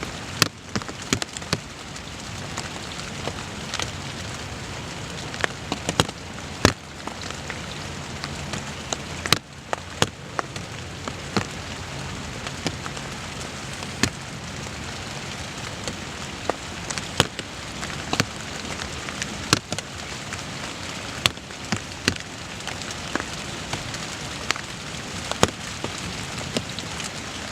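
Steady rain hissing, with loud single drops ticking close by at irregular moments, about one or two a second.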